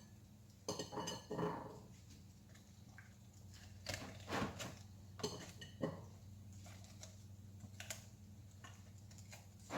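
Scattered light knocks and clinks of kitchen handling, a baking pan and utensils moved about as a chicken is stuffed with vegetables, about eight separate strikes over a steady low hum.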